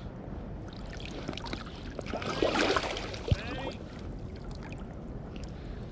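Water splashing and gurgling close by, loudest about two to three and a half seconds in, over the steady sound of river water.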